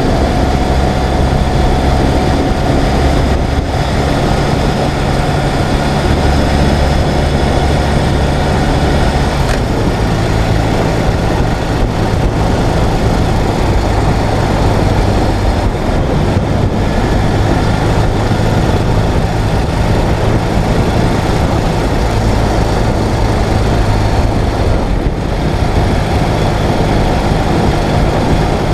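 Ural sidecar motorcycle's air-cooled flat-twin engine running steadily under way, with wind and road noise. The engine note changes a couple of times as speed or gear changes.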